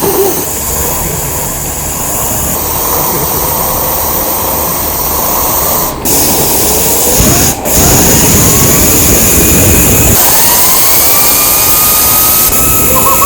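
Homemade alcohol-fired model turbofan engine running, with a loud roar of burning alcohol vapour. From about the middle on, a thin whine rises in pitch as the fan spins up toward a self-sustaining run.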